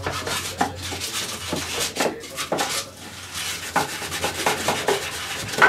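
Hand rubbing and scraping on wood in short, irregular strokes, with a few sharper knocks; the sharpest is near the end.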